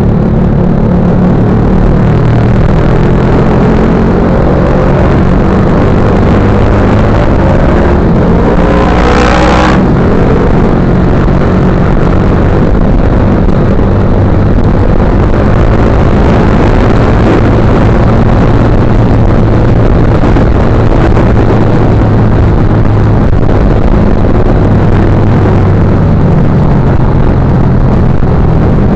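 Motorcycle engine running steadily and loudly, with a low hum. About nine seconds in, an engine revs up, its pitch climbing quickly for about a second before it settles back.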